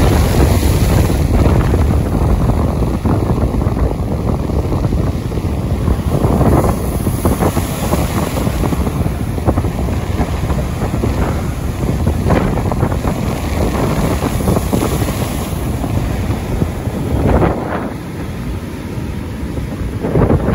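Strong wind blowing across the microphone, a steady rumbling rush that swells in gusts now and then.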